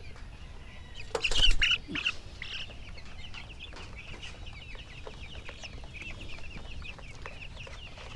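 A flock of 13-day-old broiler chicks cheeping continuously, with a louder flurry of peeps and scuffling about a second in.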